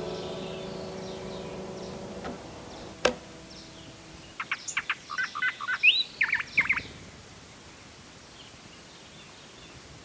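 A small bird calling in a quick run of short chirps with one rising whistle, lasting about two seconds near the middle. Before it, held music tones fade out and a single sharp click sounds about three seconds in.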